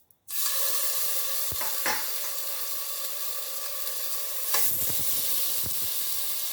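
Diced chicken breast frying in hot oil in a pot: a loud, steady sizzle that starts suddenly just after the beginning, with a few light knocks around two and five seconds in.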